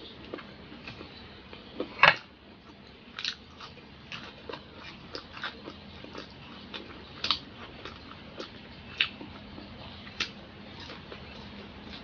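A person chewing and biting into fried food, with irregular crisp crunches and clicks; the loudest crunch comes about two seconds in.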